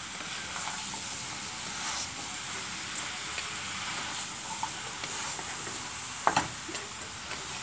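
Chopped bottle gourd sizzling in hot oil and spices in a wok while it is stirred and tossed with a wooden spatula: a steady frying hiss with light scraping clicks. One short, sharper sound stands out about six seconds in.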